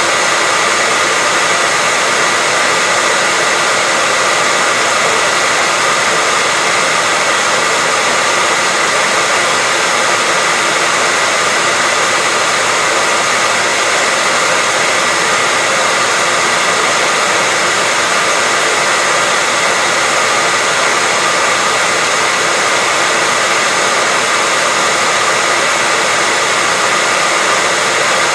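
Hair dryer running continuously at a steady speed: an even rushing of blown air with a faint whine of the fan motor.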